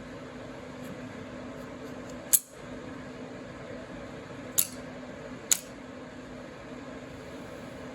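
Three sharp knocks, the first about two seconds in and the loudest, as the wooden butt of a hammer taps a piston up through the cylinder of a Cummins diesel block, wood on wood. A steady low hum runs underneath.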